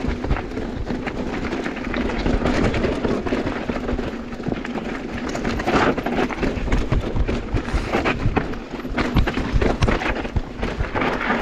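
Mountain bike riding fast down a dirt trail: tyres running on loose ground while the chain and frame rattle and clatter over bumps, with wind rushing on the microphone.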